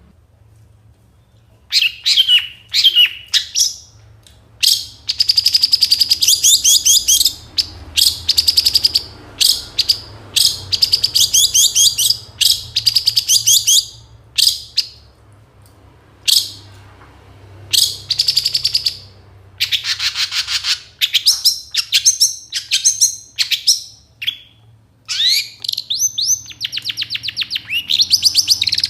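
Long-tailed shrike singing: bursts of rapid, high chirping notes and trills, broken by short pauses, starting a little under two seconds in. It is a full song packed with imitated phrases of other birds.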